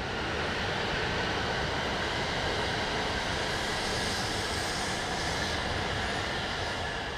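E8 series Shinkansen train running past close by: a steady, loud rush of wheel-on-rail and running noise that swells in at the start and eases off slightly near the end.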